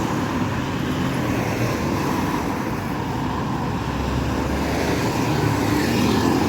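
Roadside traffic passing on a highway. A heavy vehicle's engine grows louder over the last couple of seconds as it approaches.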